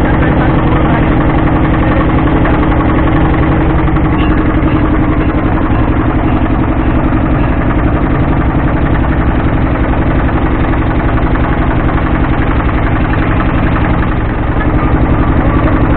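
Motorboat engine running steadily at close range, a loud, even drone.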